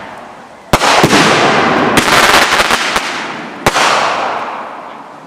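Consumer fireworks going off: a sharp bang about a second in, another just after, dense crackling around two to three seconds and a last bang near four seconds, each trailing off in a long fading crackle and hiss.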